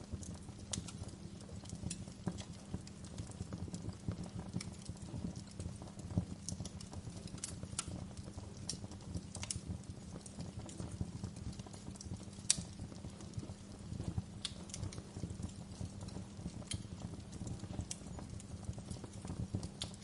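Wood fire crackling in a fireplace: a steady low rumble of flames under irregular sharp pops and snaps, the loudest pop about twelve seconds in.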